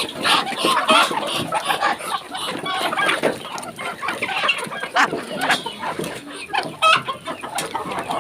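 A flock of chickens clucking and calling, with many short calls overlapping in a continuous chatter and a few louder, sharper calls standing out. The flock is stirred up as fresh chopped leeks are brought in as feed.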